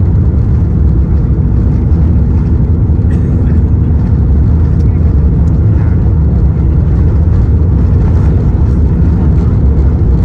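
Airbus A350-900 cabin noise from inside the economy cabin: a loud, steady rumble of engines and airflow.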